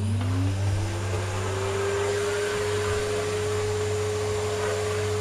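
Vacuum cleaner switched on for a test run after a repair for lost suction: its motor whine rises in pitch over the first couple of seconds as it spins up, then runs steadily.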